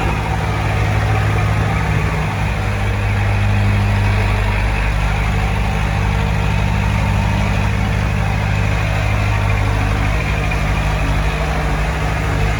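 Heavy diesel engine of earthmoving equipment running steadily with a low drone, with a clattering noise over it.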